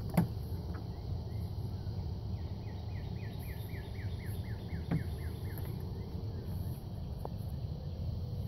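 Outdoor ambience with a steady low rumble, through which a bird sings a quick run of about a dozen descending chirps. A sharp knock comes just after the start and a fainter one about five seconds in.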